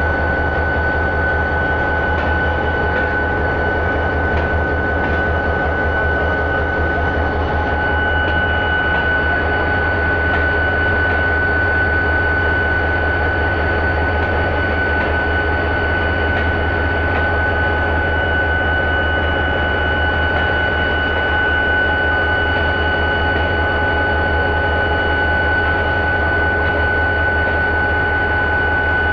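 Passenger train coaches rolling past close by: a steady, loud rumble of wheels on the track, with a constant high whine held over it.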